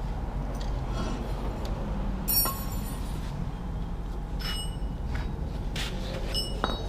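Metal tools clinking and ringing against metal a few times, the sharpest clink about two and a half seconds in and another near the end, over a steady low hum.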